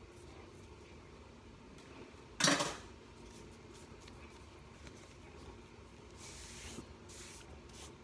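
Kitchen handling noises while chillies are being prepared: one short, loud scrape or rustle about two and a half seconds in, then softer rustling near the end.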